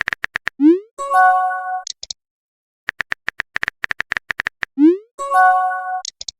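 Messaging-app sound effects played twice: a run of quick typing clicks, then a short rising swoop and a brief electronic chime.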